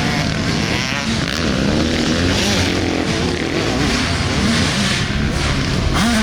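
Dirt bikes riding a motocross track, their engines revving up and down with a wavering, rising and falling pitch.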